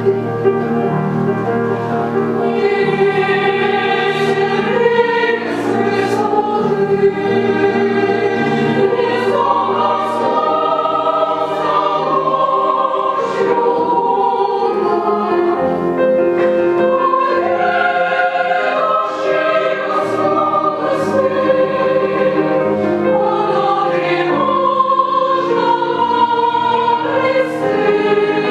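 Chamber choir of men's and women's voices singing a slow Russian romance in long, held chords.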